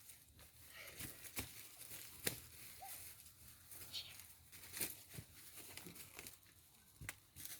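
Irregular rustling and crackling, with scattered sharp clicks.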